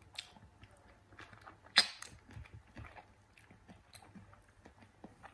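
A person biting into and chewing a slice of ripe mango: soft, wet mouth clicks and smacks, with one sharper click a little under two seconds in.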